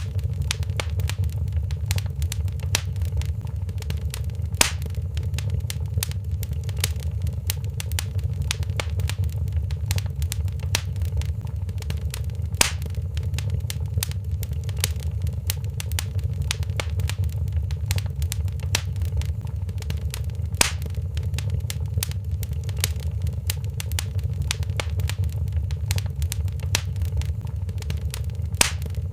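Wood fire crackling in a fireplace: a dense run of small crackles, with a few louder pops, over a steady low rumble.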